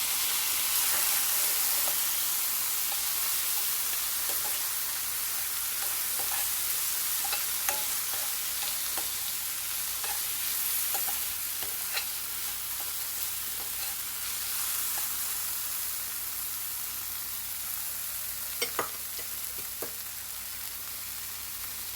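Chopped onions and freshly added tomatoes sizzling in hot oil in a frying pan, with scattered clicks of a spoon stirring against the pan. The sizzle is loudest at the start and slowly dies down.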